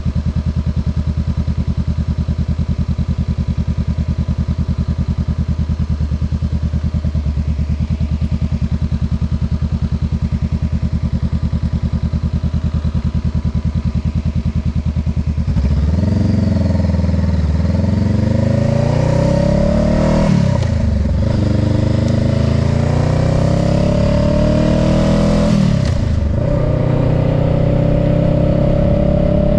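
Honda Rebel 500's parallel-twin engine idling steadily at a stop. About halfway through it revs up as the bike pulls away, rising in pitch. It shifts up twice, about five seconds apart, with a short drop in pitch at each shift, and climbs again after each one.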